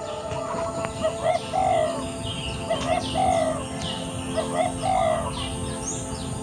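Spotted dove cooing, a low three-note phrase of two short coos and a longer one, repeated three times, with small songbirds chirping higher up.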